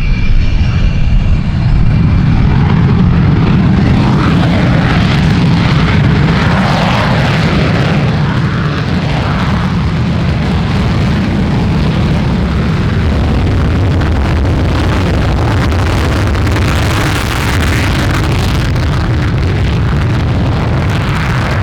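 Panavia Tornado's twin RB199 turbofans running at high power in afterburner, a loud continuous jet noise with a heavy low rumble; a faint high whine fades out in the first few seconds.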